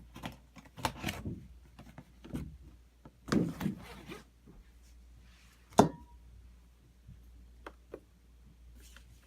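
Objects being moved and set down on a workbench: scattered rubbing, sliding and knocking, with one sharp knock about six seconds in and a couple of light clicks near the end.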